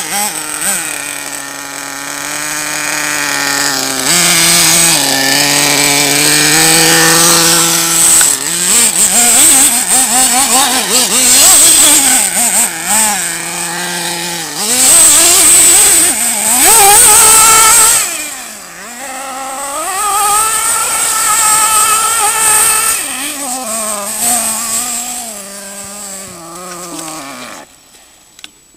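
The .21-size nitro engine of a 1/8-scale RC buggy running, its pitch rising and falling again and again as the throttle is opened and closed, with a steady high whine above it. The sound fades away near the end.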